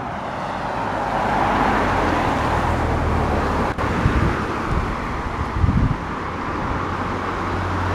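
Road traffic: a car passing close by, its tyre and engine noise swelling over the first couple of seconds and then slowly easing, with low rumbles underneath.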